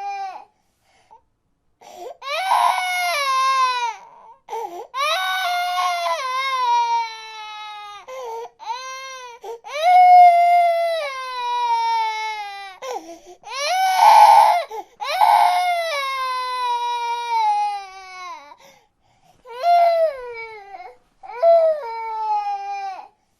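Baby crying in a string of loud wailing cries, each one falling in pitch and broken by short gasping breaths, with brief pauses between some of them.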